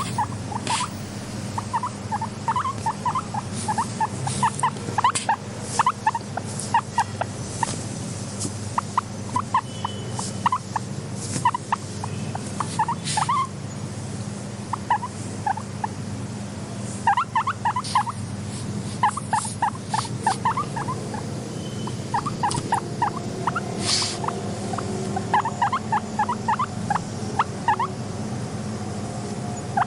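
Guinea pig making runs of short, quick squeaky calls in bursts, with a few sharp clicks, over a steady low hum.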